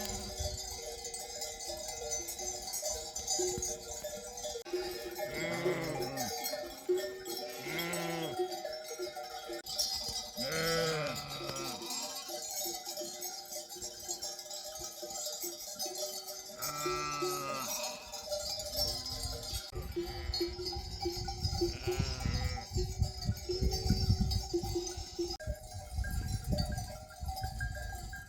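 Sheep bells clinking steadily among a grazing flock, with sheep and lambs bleating about five times. A low rumbling noise runs through the second half.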